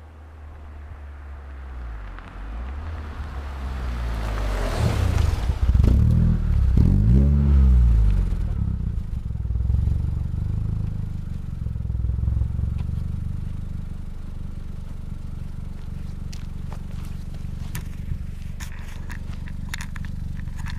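2001 VW Jetta's 1.8-litre turbo four-cylinder, through a 3-inch turbo-back stainless exhaust necked down to a 2.5-inch tip, in a drive-by: it grows louder as the car approaches, its pitch rises and then falls as it passes close by, and after that it settles into a steady low rumble.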